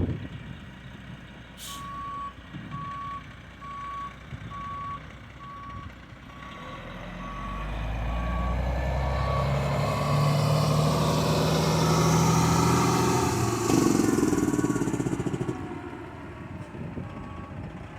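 Backup alarm on a snow-plow semi truck beeping steadily, about one beep every three-quarters of a second, as the truck reverses. Its diesel engine grows louder through the middle, together with a broad rushing noise, then fades near the end.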